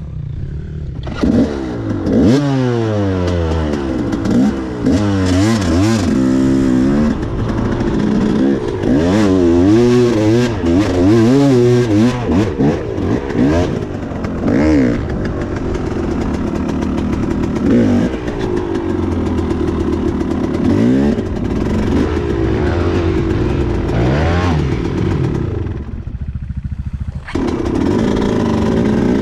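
Enduro motorcycle engine revving up and down again and again as the throttle is worked, then running more steadily. It drops away briefly near the end, then picks up again.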